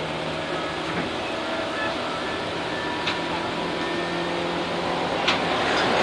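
Tobu 8000 series electric train running between stations, heard from on board: a steady rumble of wheels and running gear with faint motor and gear tones, a few sharp clicks, and growing slightly louder near the end.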